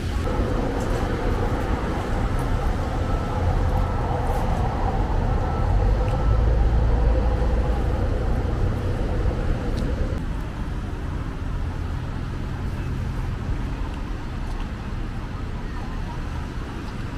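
Road traffic going by, with a low rumble from a heavy vehicle swelling about six seconds in. A steady hum runs underneath and cuts off about ten seconds in.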